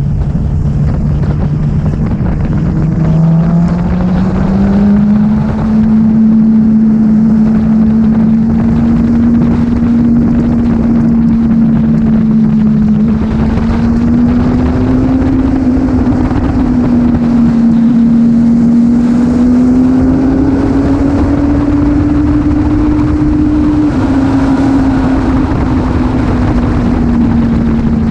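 Motorcycle engine running at highway speed, its note rising as it accelerates a few seconds in, then holding fairly steady with slight rises and falls. Wind rush on the microphone runs underneath.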